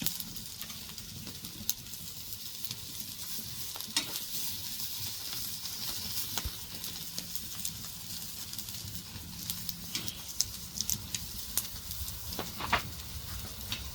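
Food frying in a pan: a steady sizzling hiss with scattered sharp pops, which come more often in the last few seconds.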